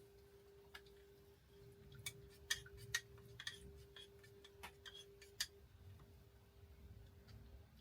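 Faint, irregular small clicks and ticks, a few of them sharper, over a faint steady hum.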